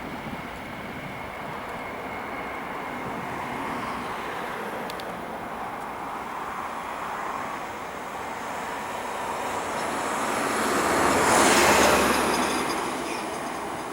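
Airbus A320-214 jet airliner with CFM56 turbofan engines passing by: a steady engine noise that swells to its loudest about eleven to twelve seconds in, then fades.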